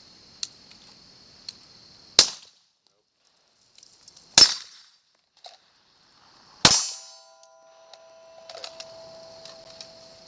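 Three pistol shots, evenly spaced a little over two seconds apart. After the first two shots the sound drops out completely for about a second.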